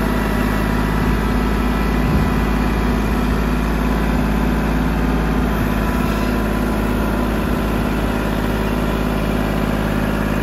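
Small ranch tractor's engine running steadily at an even speed.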